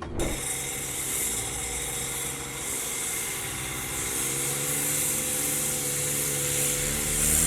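An engine running steadily, its pitch shifting slightly about four seconds in.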